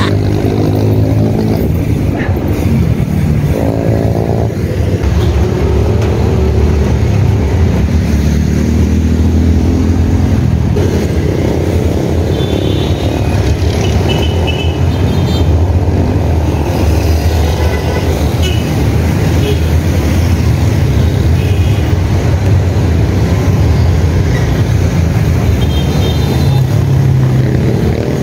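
City road traffic heard from a moving bicycle: a steady low rumble with motorcycle and car engines running close by, one rising in pitch in the first few seconds, and a few short high-pitched beeps now and then.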